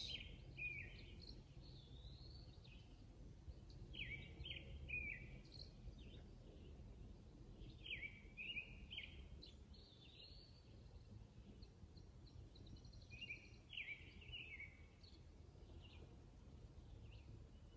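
Faint outdoor ambience: a songbird sings short chirpy phrases, repeated every few seconds, over a low steady background rumble.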